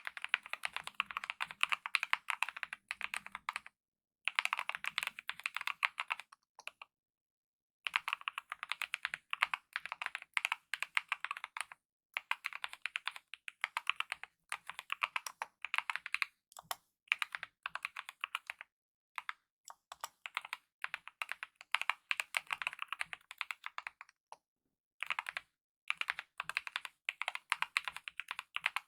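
Typing on a mechanical keyboard with lubed optical linear red switches and DSA-profile keycaps: fast, continuous key strokes in bursts, with a few brief pauses between runs.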